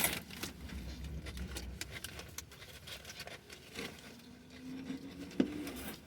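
Eating sounds close to the microphone: chewing and handling of food, a steady string of soft clicks and rustles.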